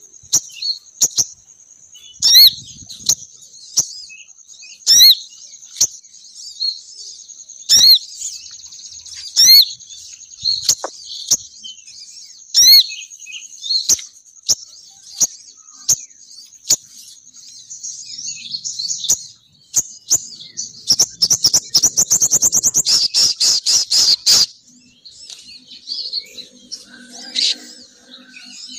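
Female sogon bird call used as a bird-trapping lure: sharp high chirps about once a second over a thin, steady high trill. About 21 seconds in comes a loud, fast chattering run lasting some three seconds.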